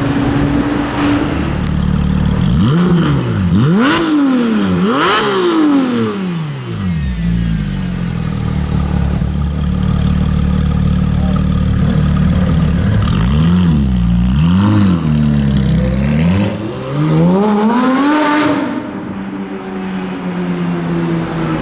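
Porsche 991 GT3's flat-six through an IPE performance exhaust, idling and revved in neutral. Two rev blips come about four and five seconds in, two more quick blips come around two-thirds through, and a longer climb peaks and falls back to idle near the end.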